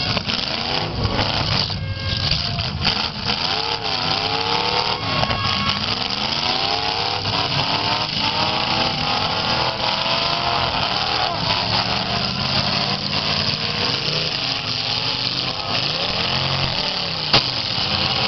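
Unmuffled V8 engines of several demolition derby cars revving up and down over one another, with a single sharp bang near the end.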